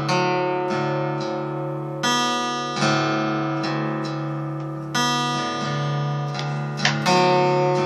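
Music: acoustic guitar chords strummed and left to ring, with a fresh strum every second or two.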